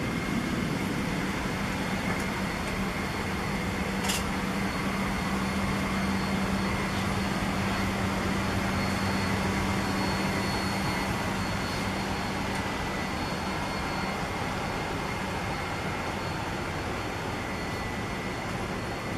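Steady rush of air-conditioning in a Boeing 767-300ER's cabin, with a low steady hum that fades out about two-thirds of the way through. A single sharp click comes about four seconds in.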